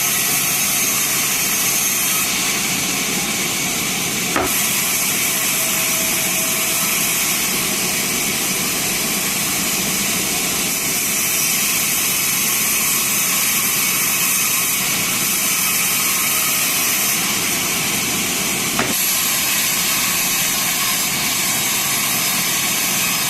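Sawmill band saw running steadily as it cuts through teak wood, a continuous loud hiss and whir, with two sharp knocks, one about four seconds in and one near nineteen seconds.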